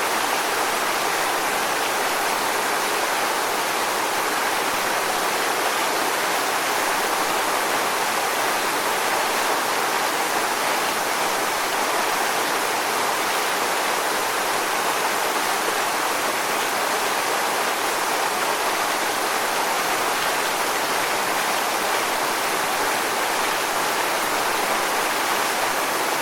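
Waterfall: falling water rushing in a steady, unbroken hiss that does not change.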